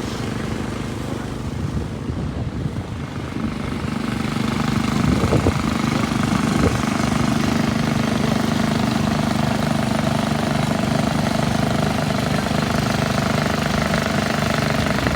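An engine running steadily, growing louder about four seconds in and then holding.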